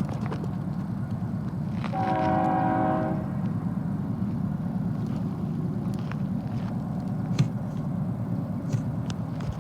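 Intermodal freight train rumbling steadily on the rails, with one short locomotive horn blast about two seconds in, lasting about a second. A few sharp clanks stand out over the rumble.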